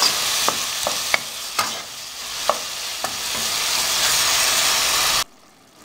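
Chopped onion, tomato and garlic sizzling in oil in a frying pan while a spatula stirs them, with scattered light taps of the spatula against the pan. The sizzle cuts off suddenly near the end.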